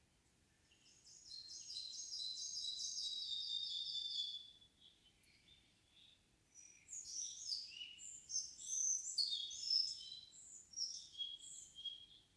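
Songbirds singing in a forest: a fast trill of repeated high notes lasting about three seconds, then after a short pause a longer, more varied warbling song.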